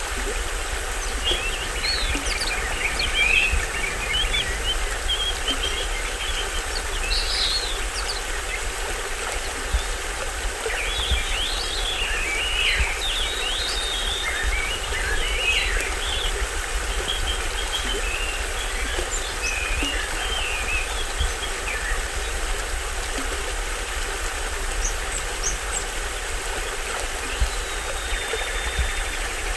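Small stream waterfall flowing steadily, with forest birds chirping in quick bursts, busiest about ten to twenty seconds in.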